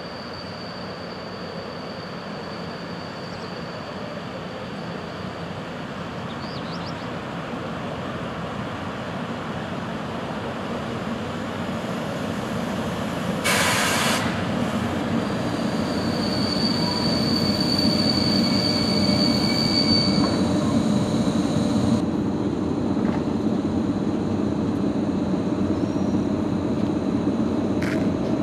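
EP08 electric locomotive and its passenger coaches pulling into a station, the rolling noise of wheels on rail growing steadily louder. A thin high brake or wheel squeal comes in near the start and again for several seconds after the middle, and a brief loud burst of noise sounds about halfway through.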